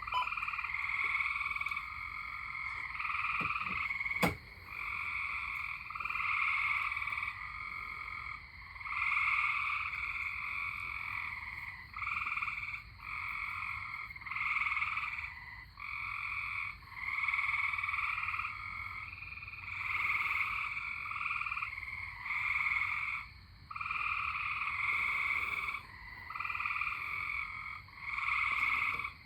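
A chorus of tree frogs trilling in bouts of about a second each, one bout following another with short gaps between them. There is one sharp click about four seconds in.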